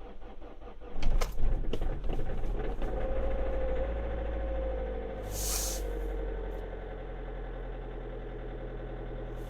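Hyundai i30 1.6 CRDi four-cylinder diesel cold-starting in deep frost: a second of rhythmic cranking, then the engine catches with a loud clatter. The revs rise and fall back into a steady idle, with a short hiss about five and a half seconds in.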